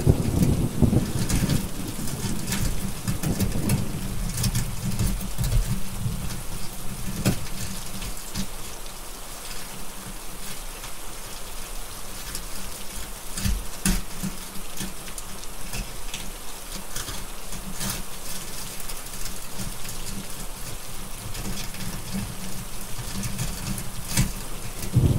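Steady heavy rain with a low rolling rumble of thunder that dies away over the first few seconds, and scattered sharp crackles of a wood fire.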